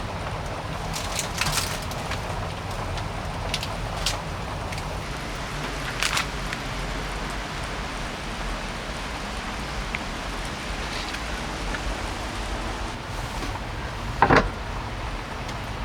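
Heavy rain falling, with a steady low rumble under it and scattered sharp drip-like ticks. A louder knock comes near the end.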